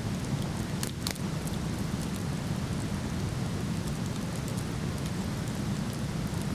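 Steady low rush of a waterfall with a wood fire crackling over it; two sharper pops about a second in.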